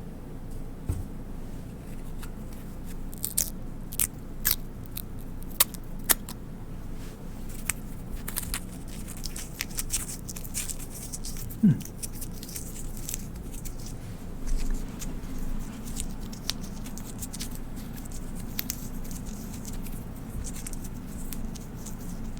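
Paper being slowly torn and crinkled close to the microphone: scattered crisp crackles and sharp ticks, densest in the first half, with one louder knock near the middle.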